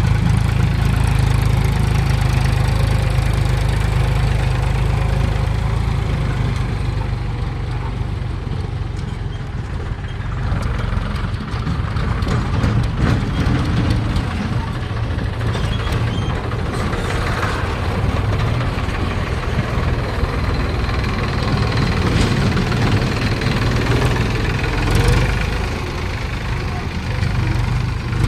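Mahindra 275 DI tractor's diesel engine running steadily, a deep continuous rumble.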